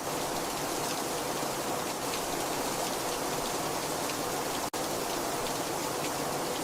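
Very heavy rain falling steadily, a dense hiss of rain with individual drops ticking through it. The sound cuts out for an instant about two-thirds of the way through.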